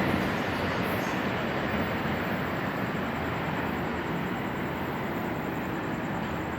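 Train rolling past on the tracks: a steady rumble of wheels on rail that slowly fades as it moves away.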